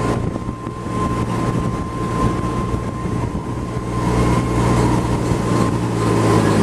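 Park courtesy tram in motion: its engine hums steadily with a thin, steady high whine above it, and grows a little louder about four seconds in.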